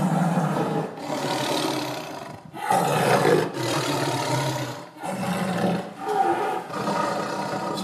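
Big cat growling and roaring in a run of about six rough, low calls, each about a second long with short breaks between them. The loudest call comes about three seconds in.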